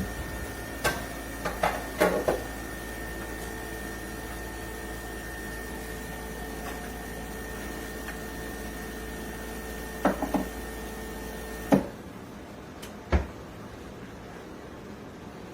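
Espresso machine's pump humming steadily as it pulls a shot, with a few light clicks and knocks, then shutting off with a sharp click about twelve seconds in. A fainter hum continues after the pump stops.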